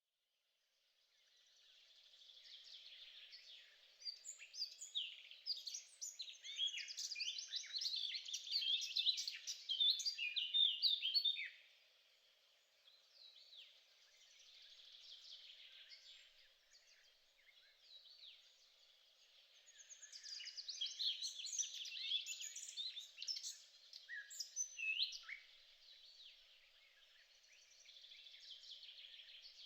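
Songbirds singing, with many quick chirping and warbling notes overlapping. The singing is loudest from about 4 to 11 seconds in and again from about 20 to 25 seconds, with a faint steady hum underneath.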